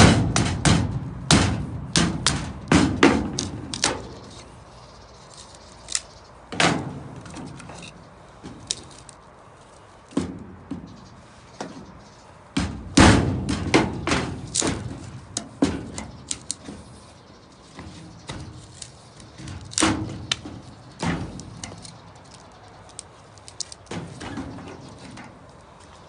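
Irregular runs of sharp knocks and thuds from a knife striking against wood, coming in bursts of rapid blows separated by pauses.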